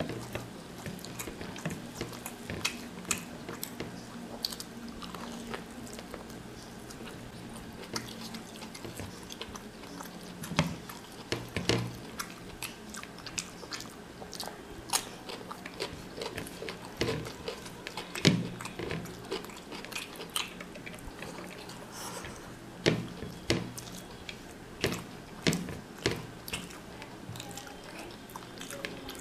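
Close-up eating sounds: a person chewing mutton biryani eaten by hand, with many short, sharp mouth clicks, and fingers working rice and meat on a paper plate. A faint steady low hum runs underneath.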